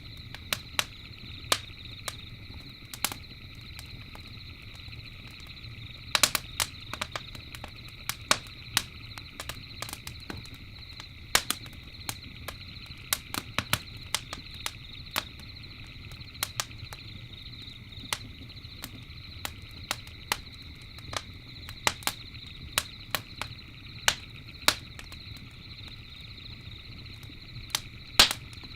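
Campfire crackling, with irregular sharp pops and snaps, some in quick clusters, over a low steady rumble of the flames. A steady high night-insect chorus runs underneath.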